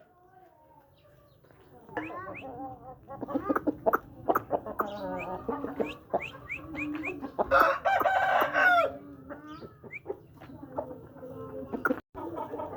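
Aseel chickens clucking and calling, with one rooster giving a loud crow of about a second and a half a little past halfway.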